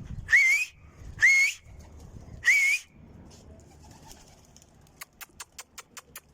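A man whistles three short, sharp, rising whistles about a second apart, a pigeon keeper's call to his flock. Near the end comes a quick run of about eight sharp clicks.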